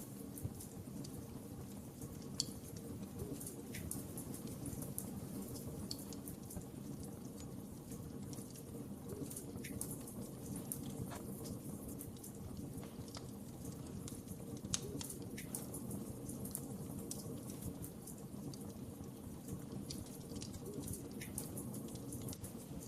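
Wood fire burning in a fireplace: a steady low rumble of flames with frequent small crackles, and two louder pops, one a couple of seconds in and one a little past the middle.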